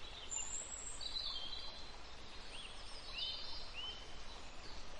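Birds chirping: a handful of short, high chirps and whistles over a steady faint outdoor hiss.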